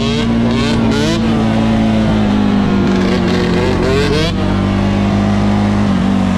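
Dirt bike engine running steadily, revving up briefly about a second in and again around three to four seconds in.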